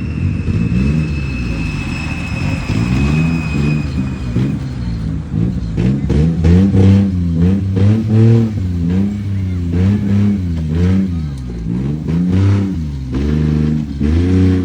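Kei mini truck's small engine revving up and down again and again, its pitch rising and falling about once a second. A faint high whine fades out in the first few seconds.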